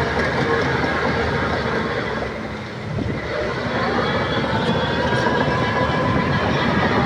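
Shantui crawler bulldozer working: its diesel engine running under load over the steady clank and rattle of the steel tracks. The noise eases briefly about two and a half seconds in, then builds again as the engine note rises.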